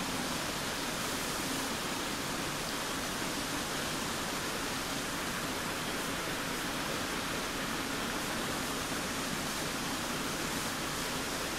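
Steady rain falling, an even rushing hiss that holds at one level throughout.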